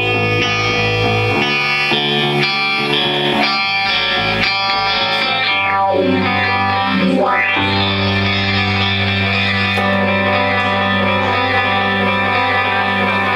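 Distorted electric guitar played through effects. About halfway through the tone sweeps down and back up, then the guitar settles into a long, held low chord.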